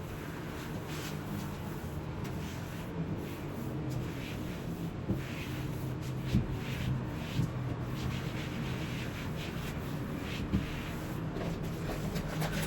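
Light rubbing and handling noises with a few soft knocks, over a steady low hum.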